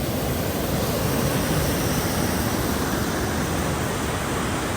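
Waterfall water rushing: a steady, loud, even noise with no change.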